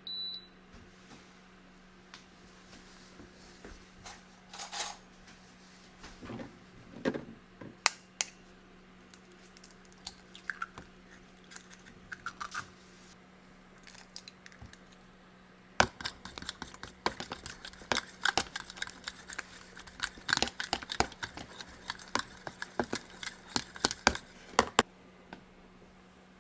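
Kitchen clatter of utensils and dishes: scattered clinks and knocks, then a dense run of quick taps and clicks from about halfway in, over a steady low hum.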